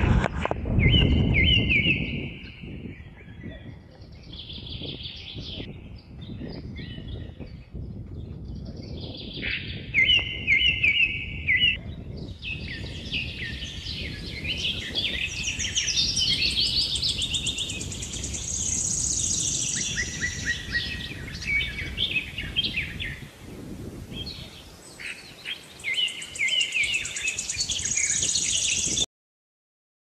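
Songbirds chirping and singing, many quick overlapping calls and trills over a low rumble. The sound cuts off suddenly near the end.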